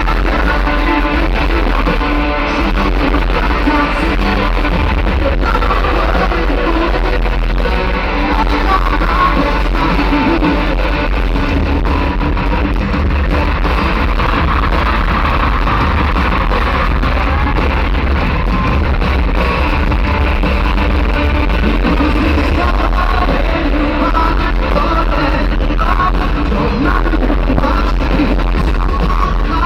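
Live rock band playing loudly with singing and electric guitars, recorded from the arena crowd. The sound is boomy and muffled, heavy in the bass with little treble, typical of a poor amateur concert recording.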